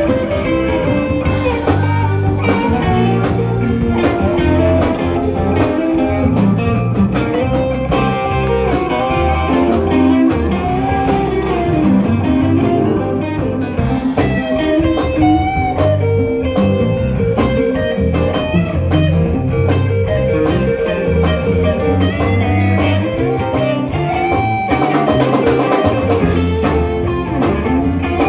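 Live rock band playing an instrumental jam: electric guitar leading with bending, sliding notes over bass and drum kit.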